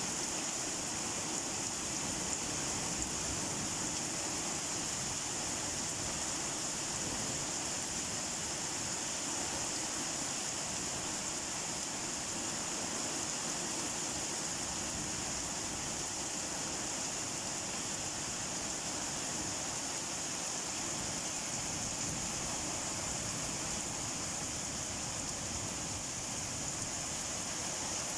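Rain falling steadily as an even, unbroken hiss, with no single drops or other sounds standing out.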